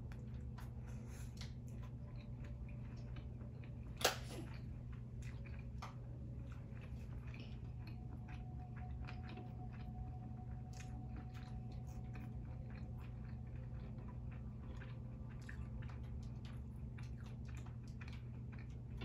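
Close-miked chewing and biting: a mouthful of shrimp and stringy melted cheese, then curly fries, with many small wet mouth clicks over a steady low hum and one sharp click about four seconds in.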